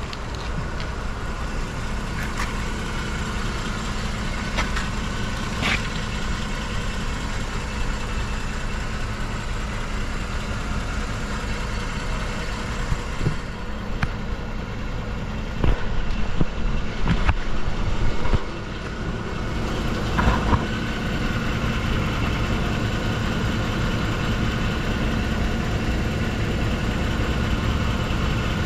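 Mercedes-Benz E300's 3.0-litre gasoline V6 idling steadily. A few uneven knocks and rustles come about halfway through.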